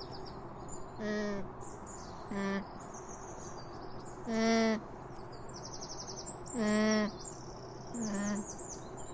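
A llama calling: five short, pitched calls spaced a second or two apart, over a background of birds chirping.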